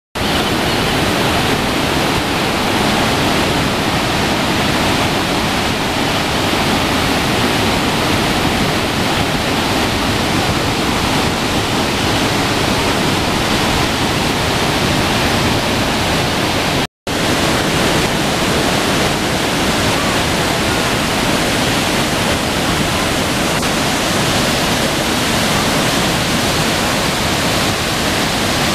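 Iguazú Falls: the heavy, steady rush of a very large waterfall, a dense wall of falling water. It breaks off for an instant about seventeen seconds in, then carries on unchanged.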